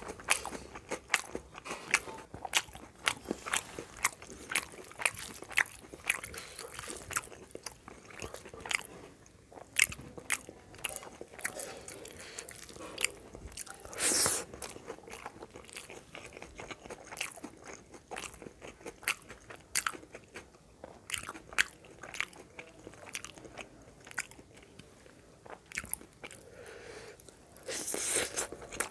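Close-miked mouth sounds of eating rice and curry by hand: steady chewing with many sharp, crunchy clicks. There are longer, louder rushes of noise about halfway through and again near the end.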